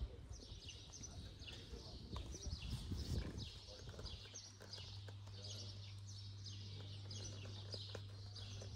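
A small bird chirping over and over, about two short high calls a second. A low steady hum comes in about halfway through, and there is some low rustling in the first few seconds.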